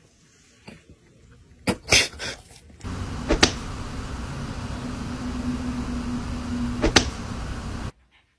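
A few knocks, then a steady machine-like hum with a constant low tone that starts and ends with a sharp click, runs about five seconds and cuts off suddenly.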